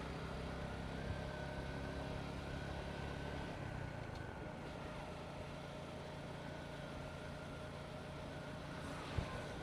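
Motorcycle engine running under way with road noise; about four seconds in the low engine note drops away as the throttle eases off. A single short knock near the end.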